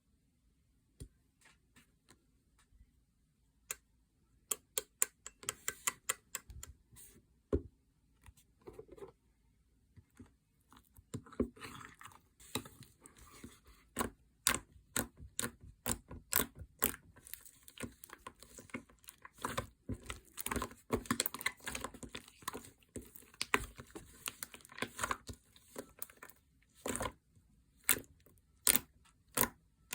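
Slime being squeezed and poked by hand, giving sharp, irregular clicking and popping sounds. The clicks are sparse at first and come thick and fast from about ten seconds in.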